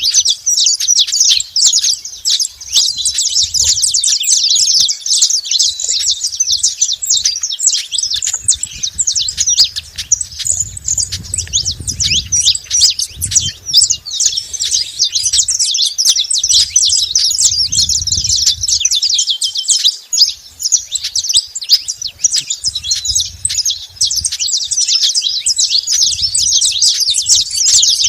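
Saffron finches chirping and singing in a dense, unbroken high chatter of many quick notes. A soft low sound comes in underneath at times.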